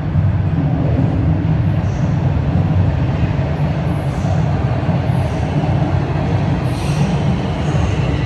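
Toronto Rocket subway train pulling into the station, a loud steady rumble of wheels and motors on the rails. Near the end a high squeal sets in as it slows.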